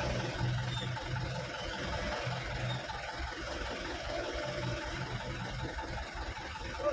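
Truck engine running steadily at low revs, a low hum that swells and eases. A short higher-pitched sound comes just before the end.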